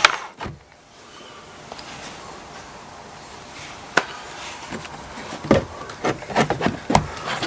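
Scattered clicks, knocks and rubbing of tools and hands on a car's plastic fog lamp housing as a drilled-out screw is worked free, one knock about halfway through and a quick cluster of them near the end.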